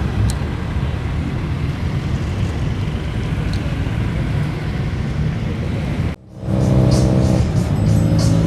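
Car engines and exhausts rumbling as cars drive past. About six seconds in there is an abrupt cut to a louder, steady droning engine note.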